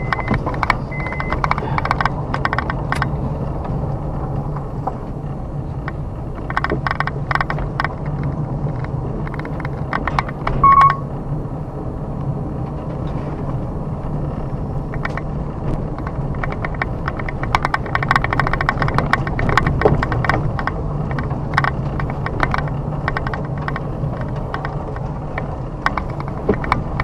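Car driving along a forest road: steady engine and road hum, with frequent clicks and crackles from the tyres and the body over the rough, debris-strewn surface. A brief high tone sounds about eleven seconds in.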